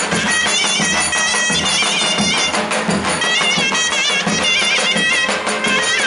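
Traditional Turkish wedding music: a shrill reed pipe playing a fast, ornamented, warbling melody over steady drum beats.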